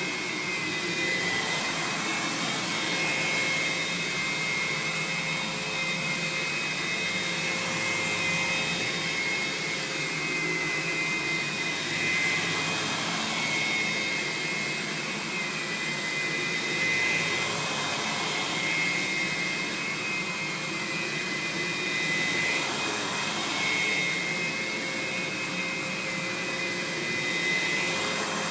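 Aerus Lux Guardian upright vacuum's 8.5-amp suction motor running steadily, drawing air through its hose and L-shaped floor nozzle, with a steady high whine over a rushing of air. The level swells and dips slightly every few seconds.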